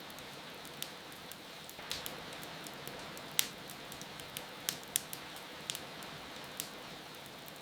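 Wood fire crackling with sharp irregular pops over a steady hiss of rain, the loudest pops about a third and two-thirds of the way in.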